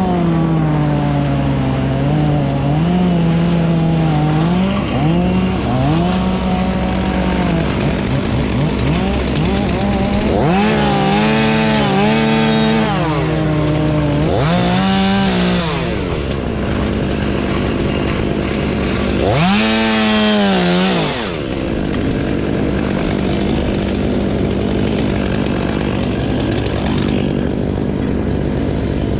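Gas chainsaw running at high revs, its pitch sagging and recovering as it works. It is revved hard and let back down three times, about ten, fourteen and twenty seconds in. A steady engine drone runs underneath.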